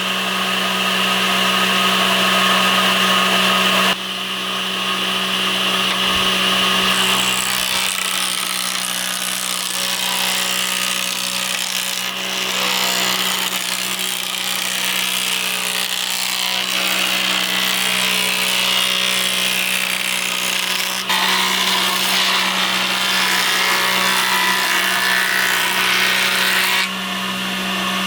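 A power tool working wood runs with a steady motor hum over noisy cutting or drilling. The sound changes abruptly several times.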